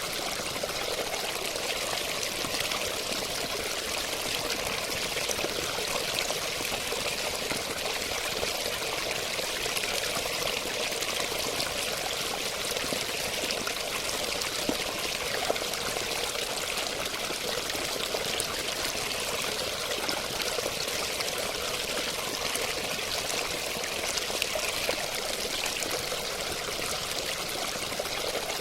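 Running water, flowing and splashing in a steady, unbroken stream.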